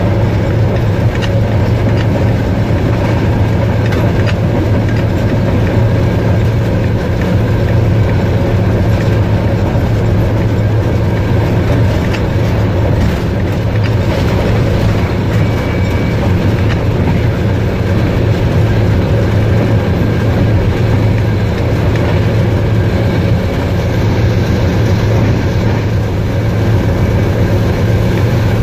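Train running steadily on the rails through a station without stopping: a continuous low rumble and hum, with faint wheel clicks over the track.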